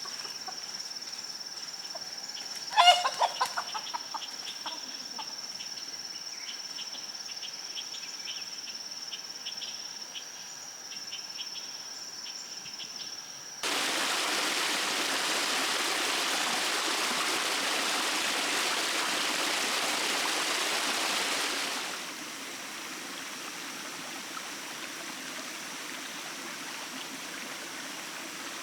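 A rooster crows once about three seconds in, over a steady high-pitched whine. Then a loud steady rush of running water starts suddenly about halfway through and drops to a quieter trickling rush after about eight seconds.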